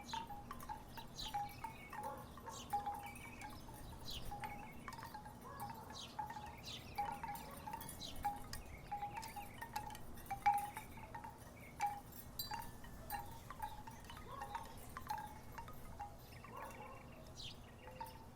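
Wooden tiki wind chimes knocking together in irregular, overlapping clacks, each with a brief ringing note.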